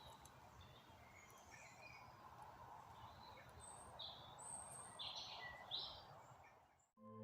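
Faint woodland birdsong: scattered short chirps from wild birds over a soft steady hiss. Near the end it cuts off abruptly and a singing bowl starts ringing.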